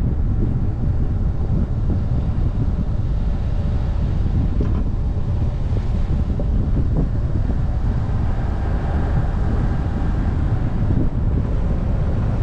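Heavy wind buffeting on a bonnet-mounted camera's microphone with road rumble from a car coasting downhill. From about eight to eleven seconds a faint whine with several steady tones shows through: the Subaru Forester's CB18 engine turning under engine braking in a manually selected CVT ratio.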